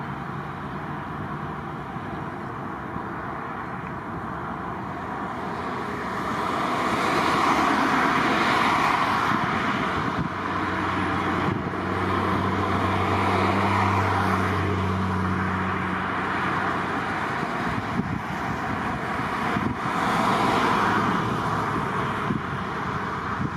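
Outdoor vehicle noise: a steady rush that swells and fades several times, with a low engine hum in the middle.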